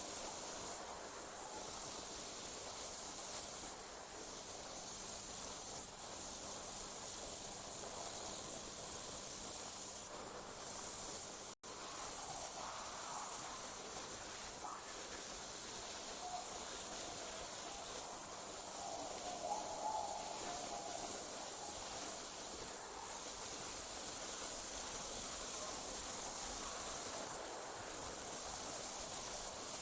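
Night-time chorus of crickets trilling steadily at a high pitch, dipping for a moment every few seconds. The sound cuts out completely for an instant about twelve seconds in.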